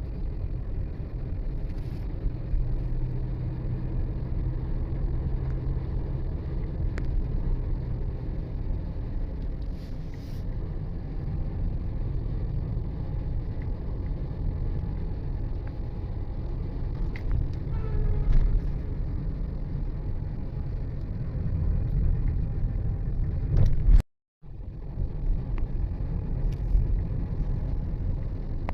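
Steady engine and road rumble of a moving vehicle on a mountain road. It cuts out to silence for about half a second near the end, then resumes.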